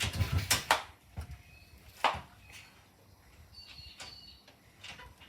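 Thumpstar 125 single-cylinder four-stroke pit bike being kick-started: a kick at the start turns the engine over with a short clatter and thud, but it does not catch. A single sharp click follows about two seconds in.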